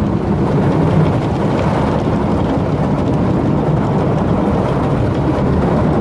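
Automatic car wash's big rotating brushes scrubbing over the van, heard from inside: a loud, steady churning rumble.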